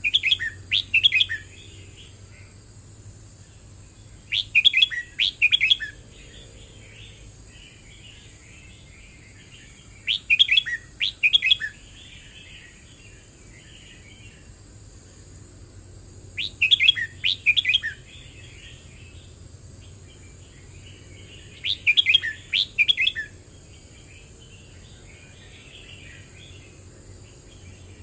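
Red-whiskered bulbul singing: five short, loud phrases of quick bright notes about every six seconds, each followed by softer twittering chatter.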